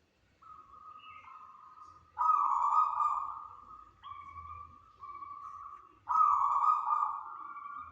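Zebra dove (perkutut) cooing: a series of soft, pure notes, with two louder, longer phrases about two seconds in and about six seconds in.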